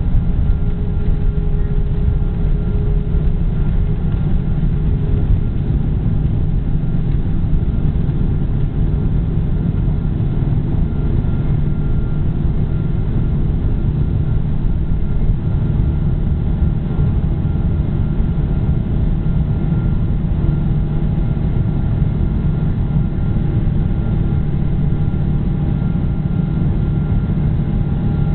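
Boeing 777 jet engines and airflow giving a steady, loud low rumble in the passenger cabin, with a faint steady whine above it.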